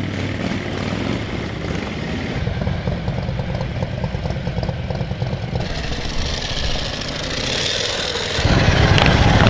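Motorcycle engine running at idle with a rapid, rough beat, louder for about the last second.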